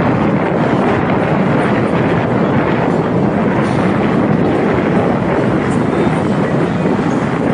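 Motorcycle running at road speed, heard from on board, its engine drone mixed with steady wind rush buffeting the microphone.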